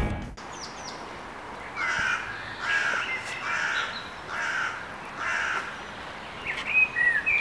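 A bird calling five times, evenly spaced calls of about half a second each, then a few short, quick chirps near the end.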